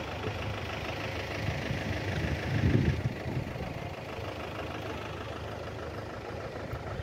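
Motorcycle engine idling steadily, swelling briefly about two to three seconds in.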